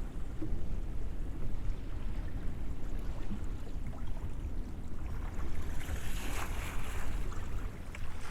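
Wind on the microphone and water lapping against a small boat at sea, with a louder wash of water about six seconds in.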